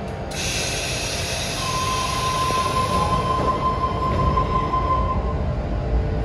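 Sydney Trains electric suburban train departing an underground platform. A sudden hiss of air starts just after the beginning and fades over a few seconds, then a steady high whine sounds for several seconds while a low rumble builds as the train starts to pull out.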